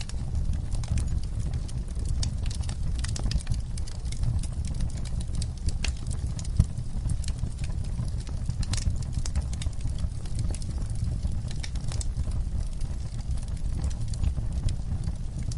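Campfire crackling: irregular sharp pops and snaps over a steady low rumble, with one louder pop about six and a half seconds in.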